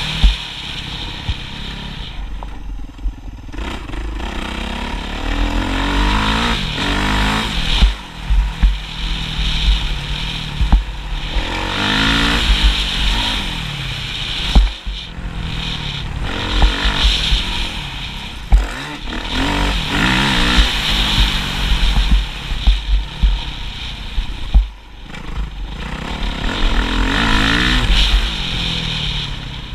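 Motocross motorcycle engine revving up and dropping off over and over, with knocks and clatter mixed in.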